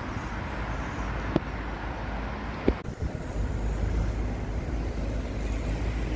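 Wind buffeting the microphone and a rolling rumble as a Carrera Vengeance mountain bike is ridden, with two sharp knocks in the first three seconds.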